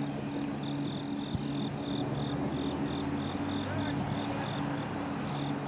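Norfolk Southern intermodal freight train rolling past, a steady rumble of wheels on rail with a low steady hum under it. A high chirp repeats about three times a second over it.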